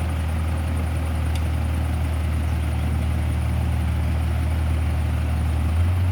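Diesel engine running steadily with a deep hum, its pitch stepping up slightly near the end as it revs a little.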